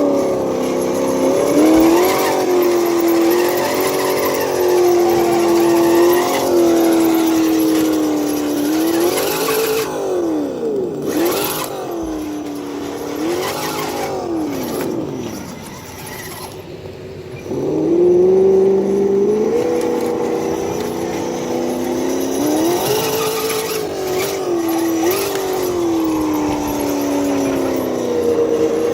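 Simulated V8 engine sound from an ESS Dual Plus sound module's speaker on a scale RC crawler, revving up and down with the throttle. It drops to a quieter low rumble a little past halfway, then revs back up.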